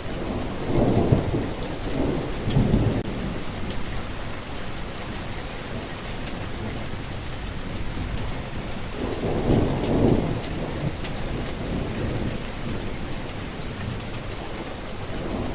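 Steady heavy rain falling, with thunder rumbling low about a second in and again about ten seconds in.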